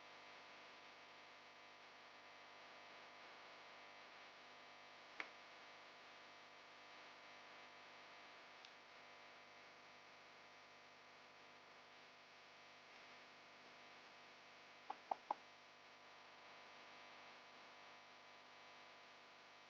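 Near silence with a faint steady hum and hiss, broken by one sharp click about five seconds in and a quick run of three clicks near fifteen seconds.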